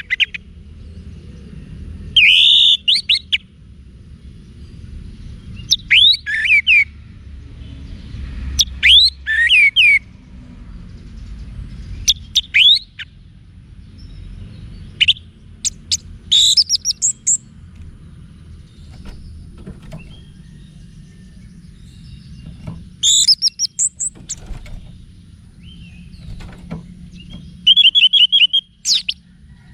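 Orange-headed thrush singing: short, varied phrases of quick rising and falling whistles every few seconds, ending with a rapid trill near the end. A steady low hum sits underneath.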